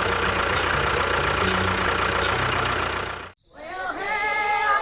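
Steady running motor with faint regular ticks. It cuts off abruptly about three seconds in, and wavering pitched sounds follow.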